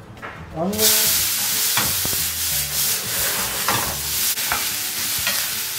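Chopped onion hitting hot olive oil in a stainless steel frying pan, starting to sizzle loudly and all at once just under a second in, then frying with a steady hiss. A few short knocks stand out over the sizzle.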